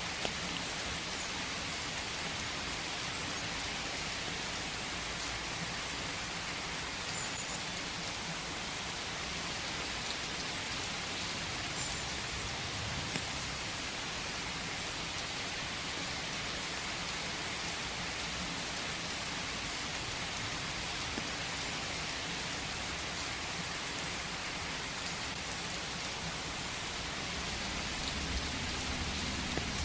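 Steady rain falling in a forest: an even hiss of rain with faint scattered drop ticks. A low rumble swells slightly near the end.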